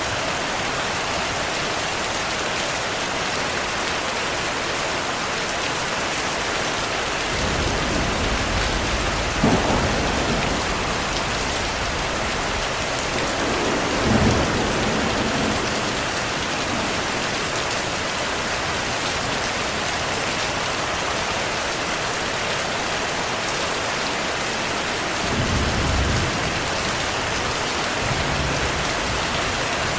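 Heavy, steady rain hissing, with low rolls of thunder rumbling in several times: about a quarter of the way in, around the middle, and again near the end.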